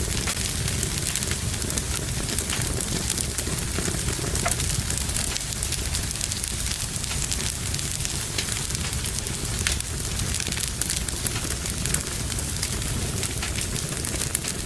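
Wood fire burning in a fireplace: a steady low rumble and hiss with frequent sharp crackles and pops.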